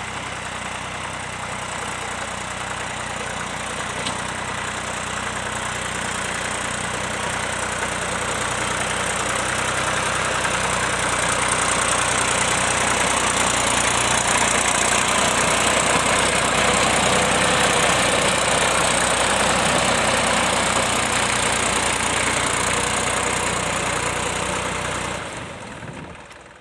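Vintage tractor engine running steadily, growing louder until it is close and loud through the middle, then dying away quickly near the end.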